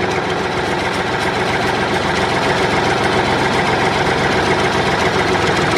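An engine idling steadily, an even mechanical chatter with no change in speed.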